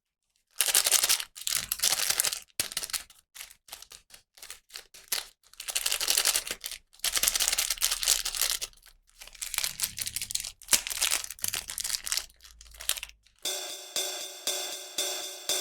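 Irregular crinkling and rustling of toy packaging being handled and opened, in bursts of a second or two with short gaps. Music with an even beat starts near the end.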